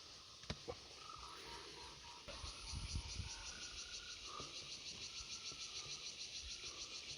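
A high, rapidly pulsing chirring call, likely an insect or frog, starts about two seconds in. It runs at roughly six even pulses a second and cuts off suddenly at the end. Faint short whistled notes sound under it.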